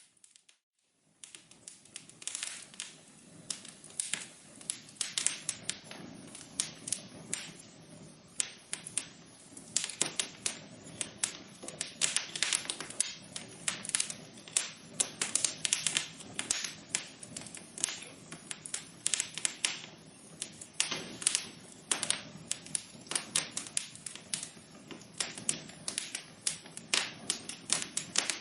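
Wood fire crackling in a fireplace: dense, irregular sharp pops and snaps over a steady low hiss of burning. The sound drops out for about a second at the start before the crackling resumes.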